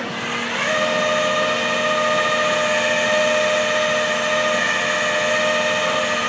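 Tow truck's engine-driven hydraulics running under load, a steady mechanical whine that climbs in pitch just under a second in and then holds, as the controls are held down to lower the boom.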